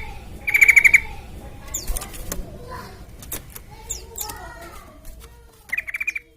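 Yellow-vented bulbul (trucukan) singing. A short, fast rattling trill comes about half a second in and another near the end, with softer varied chirps and warbling notes between them.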